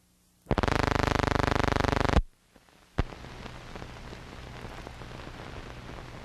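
A loud buzzing tone that starts about half a second in and cuts off after about a second and a half. Then a sharp click, then the steady hiss and crackle of an old film's optical soundtrack running before the music starts.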